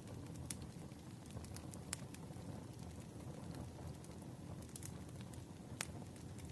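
Wood fire crackling: a steady low rumble of burning logs with scattered sharp pops, the loudest about two seconds in and again near the end.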